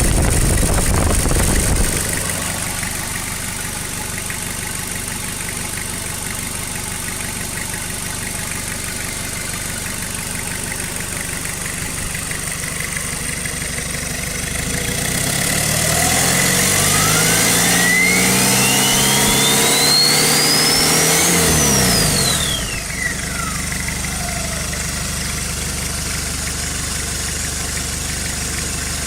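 Toyota 3L four-cylinder turbo diesel engine idling, briefly at higher revs in the first two seconds. From about 15 seconds in it is revved for some seven seconds: the engine note rises and a thin turbo whine climbs steeply, then it drops back to idle and the whine falls away over the next second or two as the turbo spools down.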